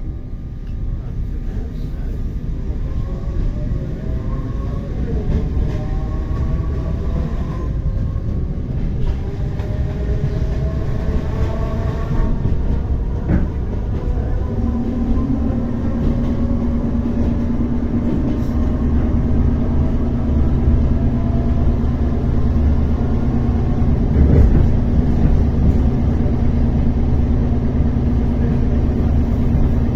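ER9T electric multiple unit running under power, with a low rumble and a whine that rises in pitch through the first half as the train gathers speed. It then settles into a steady low hum about halfway through.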